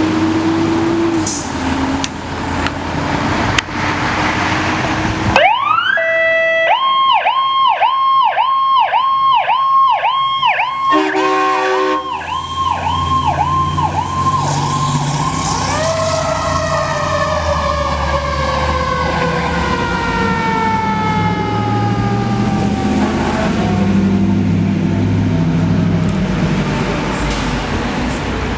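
Fire engine's siren going out on a call: the engine's rumble first, then the siren winds up about five seconds in and runs a fast yelp of about two wails a second, with a short horn blast near the middle. From about halfway a second siren tone winds slowly down in pitch over the engine's rumble for the rest of the time, like a mechanical siren coasting down.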